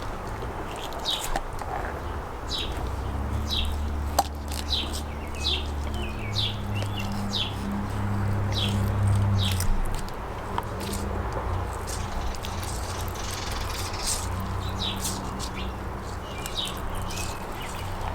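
Small birds chirping, many short high calls repeating throughout, over a steady low hum. A single sharp click about four seconds in.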